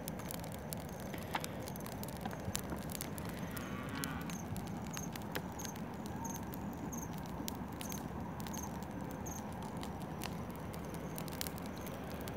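Freshly lit bonfire of dry grass burning, with irregular sharp crackles and pops over a steady low rush. A faint high chirp repeats about twice a second from about five to nine seconds in.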